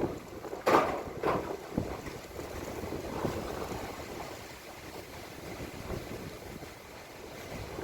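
Strong wind buffeting a phone's microphone, with a few loud gusts in the first second and a half and then a steadier rush.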